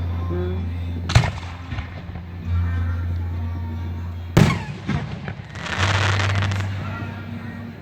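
Fireworks going off: a sharp bang about a second in and another near the middle, followed by a second or so of dense crackling. Music plays underneath with a steady low bass note.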